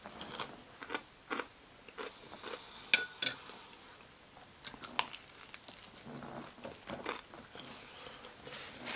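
A person biting into and chewing crispy fried chicken: irregular crunches, the loudest a sharp one about three seconds in.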